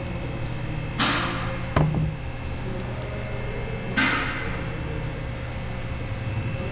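Two sharp knocks, each ringing off with a hiss, one about a second in and one about four seconds in, with a short click between them, over a steady low hum.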